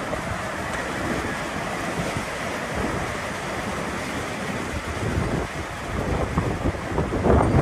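Strong gusty wind rushing and buffeting the microphone in a damaging windstorm, with a louder gust near the end.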